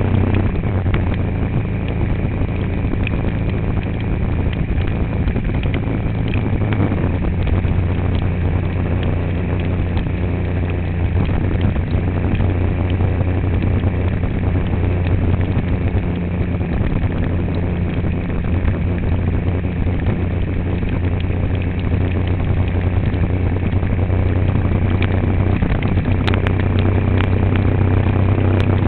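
Motor vehicle driving at a steady speed: a continuous low engine hum with road noise.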